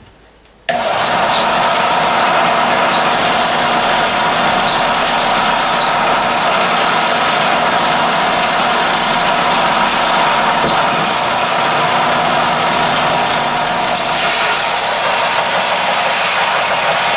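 Belt sander running steadily, a motor hum under a loud rushing hiss as a steel lawnmower blade's bevels are ground on the belt. It starts abruptly about a second in, and the hiss turns brighter a couple of seconds before the end.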